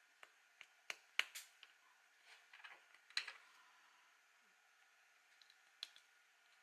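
Faint, scattered clicks and light taps of small hard objects being handled, the sharpest about a second in and again about three seconds in.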